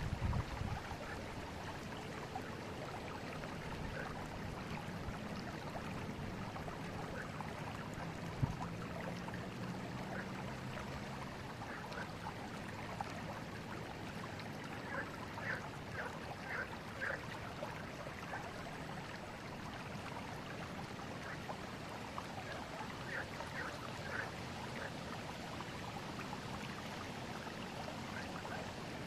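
Forest river flowing steadily, an even rush of water with brief bright trickles and splashes now and then. A single soft knock sounds about eight seconds in.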